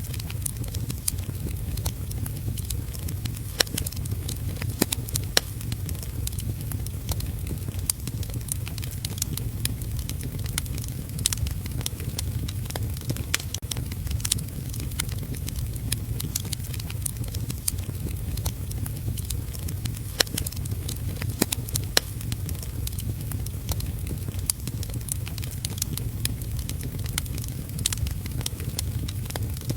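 Wood fire crackling in a fireplace, with frequent irregular sharp pops over a steady low rumble and heavy rain.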